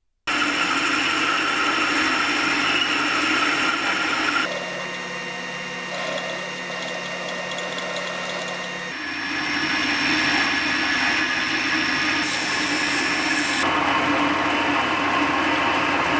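Small workshop power tools running steadily, the sound changing abruptly about four and a half and nine seconds in, with a short burst of hiss near the end.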